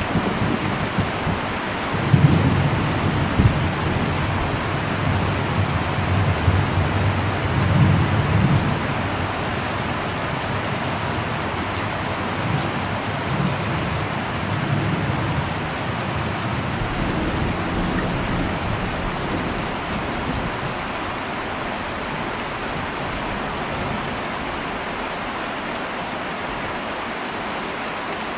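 Heavy rain drumming steadily on an old metal roof, with a long low rumble of thunder that starts about two seconds in and slowly fades away over the next twenty seconds or so.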